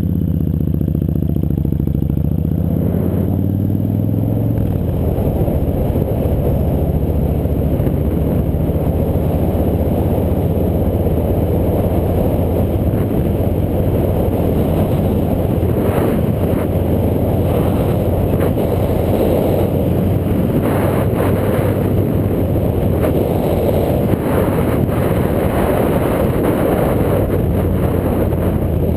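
A motorcycle engine rising in pitch as it accelerates over the first few seconds, then running on at speed under a dense, steady rush of noise.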